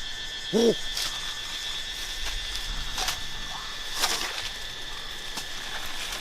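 Steady high-pitched drone of forest insects, with a short rising-and-falling animal call about half a second in and a few sharp clicks or knocks.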